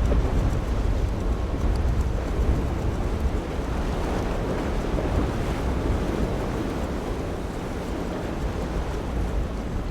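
Waves and rushing water with wind buffeting the microphone: a steady rushing noise with a heavy low rumble, easing slightly toward the end.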